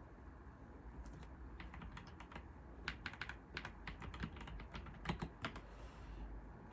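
Typing on a computer keyboard: a run of key clicks starting about a second in and stopping near the end.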